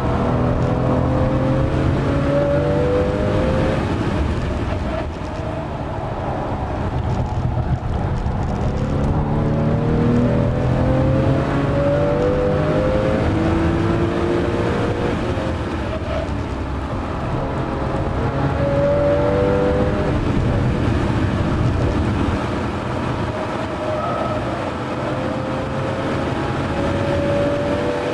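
Porsche 997 Carrera S flat-six engine heard from inside the cabin under hard acceleration, its pitch climbing through the revs several times and falling back between pulls.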